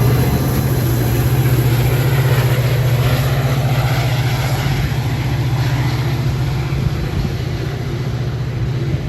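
Metra F40PH-3 diesel locomotive running with a steady low drone as the commuter train pulls out, slowly growing quieter as it moves away.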